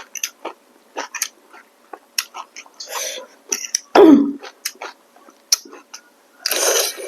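Close-up eating sounds of someone eating rice noodles with shrimp: rapid wet chewing clicks and lip smacks, a short falling 'mm'-like vocal sound about four seconds in, and a breathy rush near the end.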